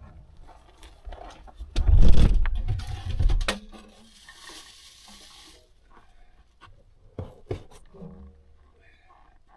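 Knocks and clatter of a small stove and its parts being handled and fitted, with a loud rumbling clatter about two seconds in, a brief hiss around four to five seconds, and two sharp clicks near the end.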